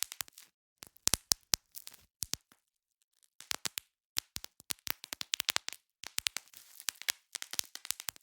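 Bubble wrap being popped by hand: quick runs of sharp pops and crackles, several a second, broken by short pauses and one longer pause of about a second near the middle.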